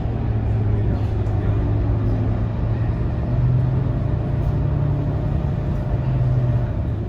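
Scania K230UB city bus's diesel engine running under way, heard from inside the bus: a steady low drone whose pitch rises a little about three seconds in and drops back near six seconds.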